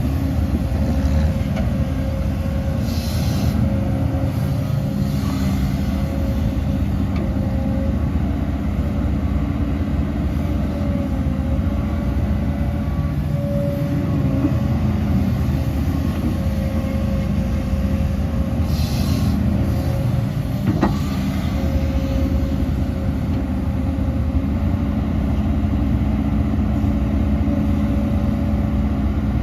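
Heavy diesel earthmoving machinery, an excavator with dump trucks, running steadily with a continuous low engine rumble. Two short hisses come a few seconds in and again about two-thirds of the way through, and there is one sharp click shortly after the second hiss.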